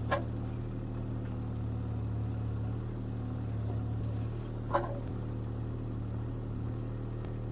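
CAT 303C CR mini excavator's diesel engine running steadily while the machine pushes a tree over, with two short sharp knocks, one at the start and one just past halfway.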